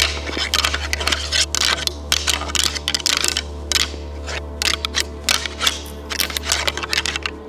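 Rapid, irregular sharp clicks and clacks, several a second, over steady background music with a low hum.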